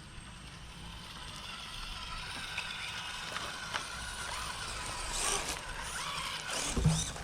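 Small electric RC rock crawler's motor and gears whining, the pitch wavering as the throttle changes and growing louder. Clicks and scrapes of the truck working over obstacles follow, with a knock near the end.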